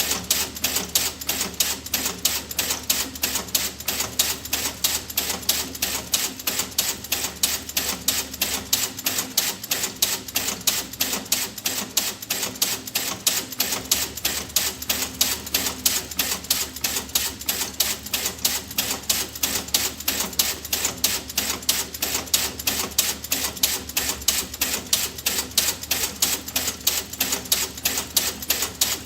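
Rapid, steady clicking, about six sharp clicks a second, going on without a break.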